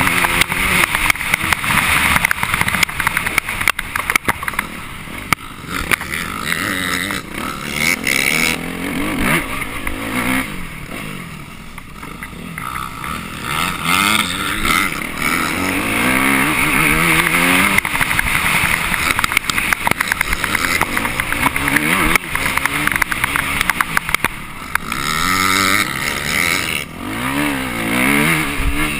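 Dirt bike engine heard from on board, revving up and dropping back again and again as the rider works the throttle and gears around the course, under heavy wind and riding noise.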